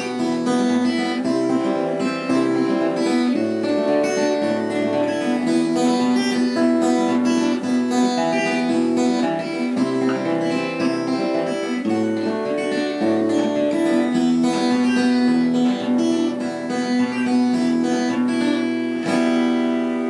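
Acoustic guitar fingerpicking (perebor) a chord pattern with no singing, ending on a final chord that rings briefly and is damped.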